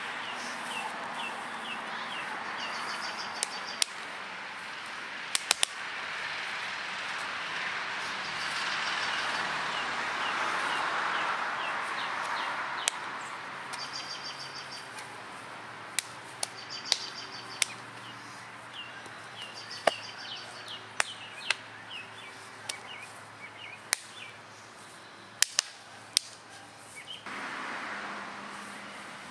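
Birds chirping in repeated runs of short high notes and trills, with about fifteen sharp cracks scattered through, some in quick pairs, standing out as the loudest sounds. A soft rushing swells and fades in the middle.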